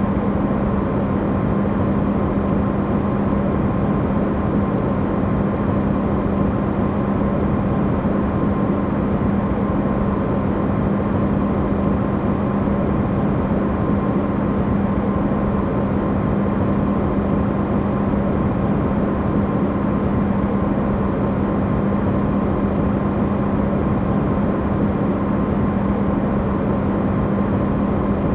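Electrolux refrigerator running, recorded amplified: a steady, unchanging hum over an even rushing noise.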